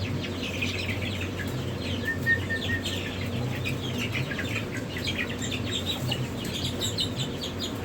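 A brood of chicks peeping continuously: many short, high, downward-falling peeps overlapping as a dense chorus, over a steady low hum.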